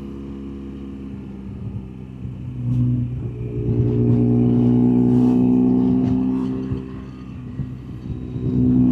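BMW R1200GS flat-twin engine running on the road with wind noise, its engine note swelling louder about three seconds in, holding, easing off around seven seconds, then swelling again near the end.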